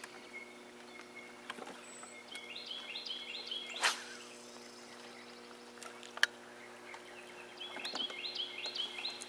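A songbird singing two runs of quick, repeated high chirps, over a faint steady low hum, with a sharp knock about four seconds in and another about six seconds in.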